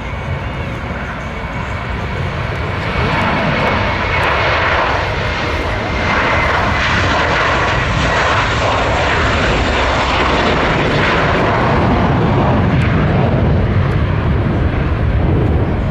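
Engines of a Portuguese Air Force fixed-wing transport aircraft running during a display pass, growing louder over the first few seconds and then holding at full volume. A faint high whine runs through the engine noise.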